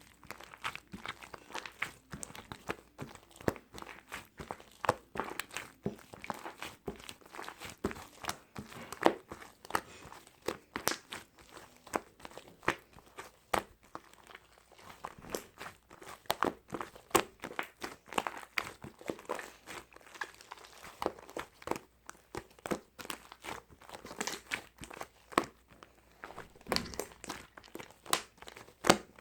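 Dense, irregular crinkling and crackling clicks that run on without pause.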